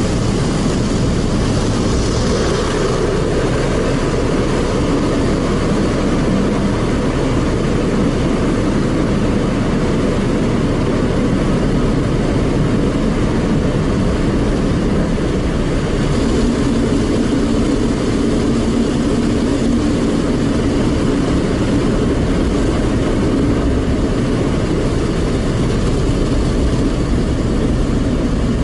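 Automatic car wash machine running, heard from inside the car: a loud, steady noise of the machine working over the car, with a steady hum joining about sixteen seconds in.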